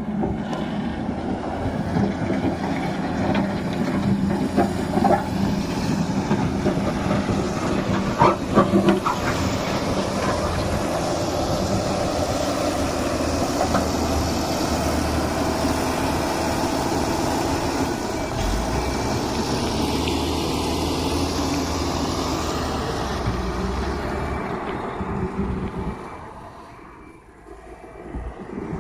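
Tata 340H backhoe loader's diesel engine running steadily under work, with a few sharp metal clanks about eight seconds in. The sound drops away briefly near the end.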